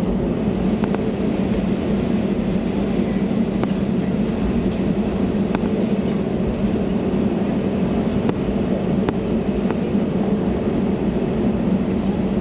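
Airbus A320neo engine and airframe noise heard inside the passenger cabin: a steady, even hum with a low rumble, with a few faint clicks and rattles from cabin fittings.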